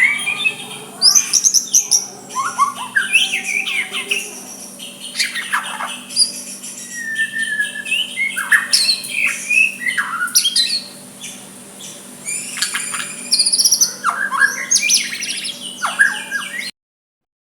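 White-rumped shama singing a varied song of quick whistles, chirps and harsher notes, over a faint steady hum. The sound cuts out briefly near the end.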